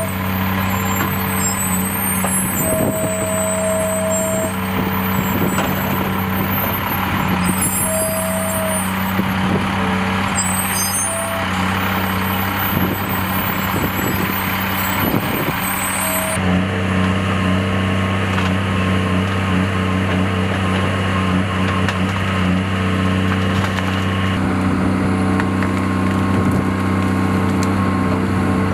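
Heavy tracked machine's engine running steadily, with a few separate beeps and high squeaks over it. The sound changes abruptly about sixteen seconds in, and the squeaks stop.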